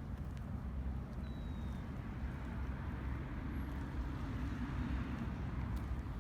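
Steady outdoor background rumble, low and even throughout, with a faint short high chirp about a second in.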